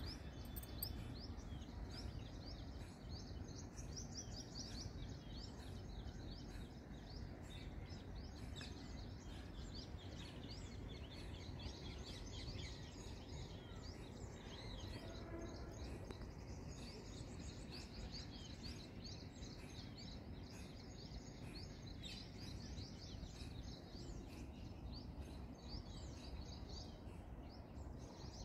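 Wild birds chirping and calling outdoors, many short high chirps in quick succession, faint over a low steady rumble.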